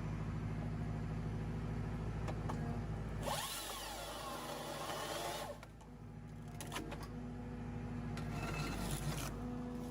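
A tractor engine runs steadily under a forestry processor head. About a third of the way in, the head's machinery cuts in with a loud rasping burst of about two seconds, carrying a whine that rises and then falls. A shorter burst comes near the end.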